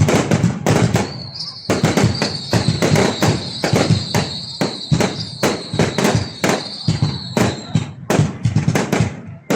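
Fireworks going off in a rapid, irregular string of sharp bangs, several a second. A steady high whistle runs through it from about a second in until near the end.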